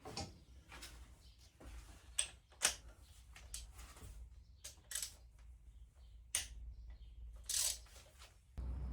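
Irregular clicks, taps and a few short scrapes of hand tools and parts being handled on metal engine parts, spaced a second or so apart; a low rumble comes in near the end.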